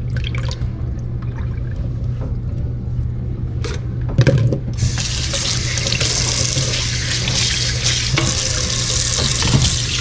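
Sink tap turned on about five seconds in, water running hard and steadily into the sink, after a few short knocks and clatters. A steady low hum continues underneath.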